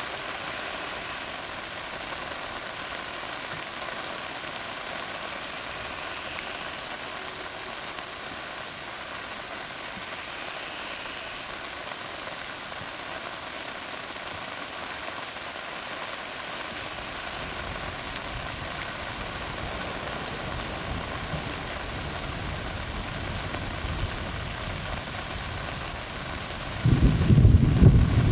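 Steady rain falling on a tar road, with scattered sharp drop hits. A low rumble of thunder builds in the last third and swells loudly about a second before the end.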